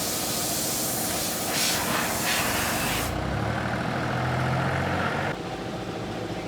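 A loud, steady hissing spray over a running engine. The hiss cuts off suddenly about three seconds in, leaving the engine running, and the level drops a little again near the end.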